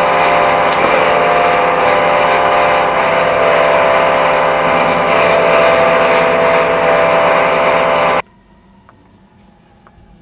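A loud, steady, machine-like drone with many held tones that cuts off abruptly about eight seconds in.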